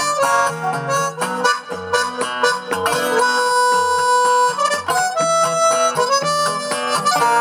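Harmonica playing a melody with long held notes over strummed guitar: the instrumental introduction of a song.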